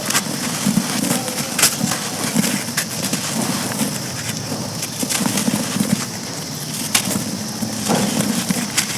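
Chunks of grainy charcoal being crumbled: a steady dry crunching and grinding, broken by a few sharp snaps.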